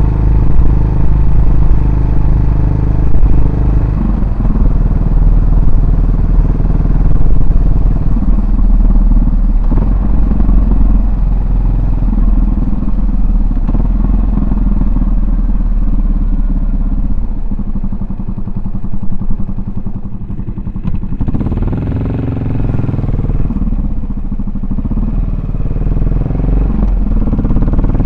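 Yamaha SR400's single-cylinder four-stroke engine and exhaust while riding, the engine speed changing as the bike slows and pulls away. About three quarters of the way through, the engine note rises as it accelerates.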